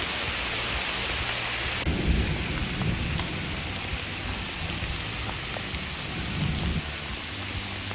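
Steady rain falling, with a long low rumble of thunder starting about two seconds in and dying away after several seconds.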